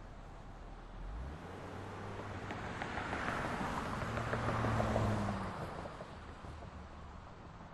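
A motor vehicle driving past on a city street: engine hum and tyre noise swell from about a second in, peak about two-thirds of the way through, then fade away.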